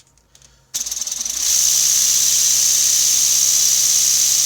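LEGO pneumatic engine starting up on compressed air about three-quarters of a second in and running fast: a loud, steady hiss of exhausting air with a rapid, even rhythm running through it.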